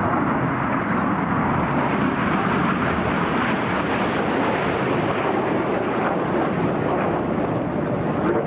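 Red Arrows BAE Hawk T1 jets flying past, a steady, loud jet engine noise from their Rolls-Royce Adour turbofans.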